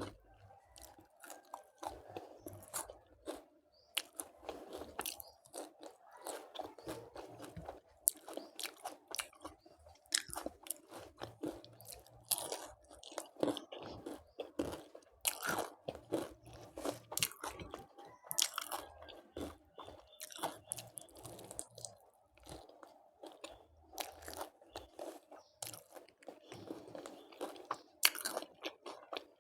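Close-miked eating sounds: a person chewing crisp food, with sharp crunching bites at irregular intervals.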